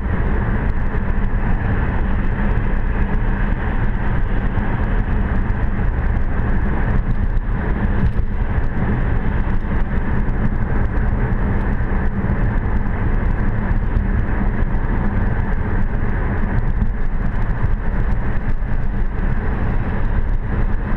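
Steady road noise inside a car cruising on a highway: tyre roar and engine hum, unchanging throughout.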